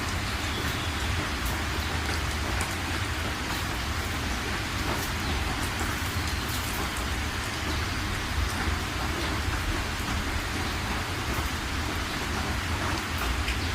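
Heavy rain falling steadily, with a constant patter of individual drops and a low rumble underneath.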